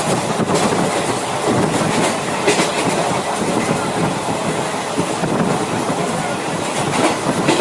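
Wheels running on rail track, heard from inside a moving passenger coach: a steady rumble and rattle with occasional sharp clacks over rail joints.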